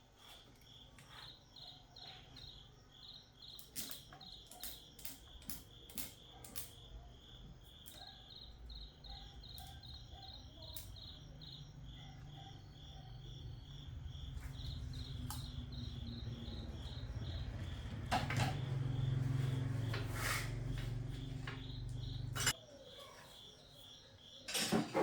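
Cricket chirping in a steady train of about three chirps a second, with scattered clicks and a low hum that builds through the second half and stops abruptly near the end.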